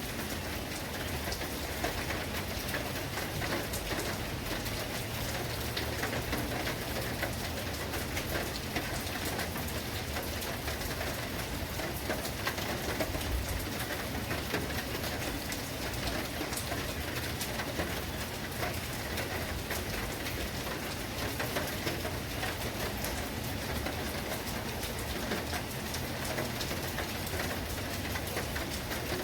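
Steady storm rain, a dense patter of drops hitting a surface under an even hiss.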